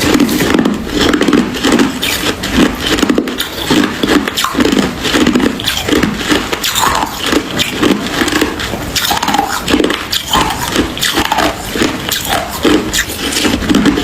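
Hard ice being chewed and crunched close to the microphone, a steady run of loud crunches about two a second.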